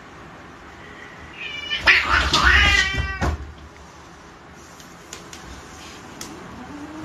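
A cat meowing, a quick run of several calls that bend in pitch, from about a second and a half in to about three seconds in, followed by a few faint clicks.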